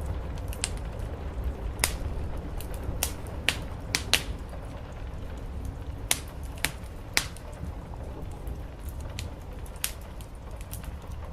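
Wood fire crackling, with sharp irregular pops over a steady low rumble of rain on the roof.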